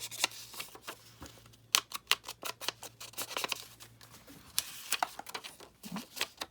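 Paper and card being handled on a desk: irregular light taps, clicks and rustles, busiest about two seconds in and again near five seconds.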